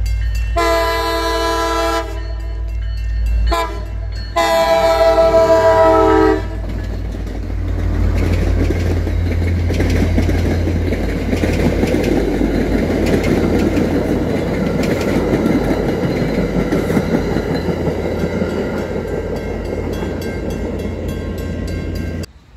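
MBTA commuter train sounding its horn in several blasts for a grade crossing, the last and longest ending about six seconds in. It then passes with a steady rumble and rattle of wheels on rail.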